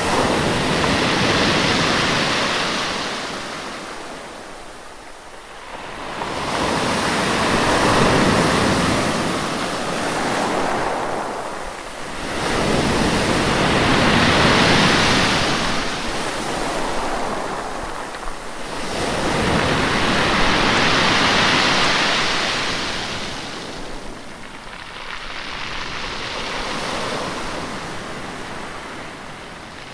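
Ocean waves surging and washing, swelling and easing about every six seconds.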